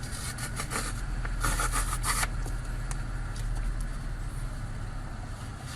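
A steady low rumble with faint scattered clicks and rustling over it.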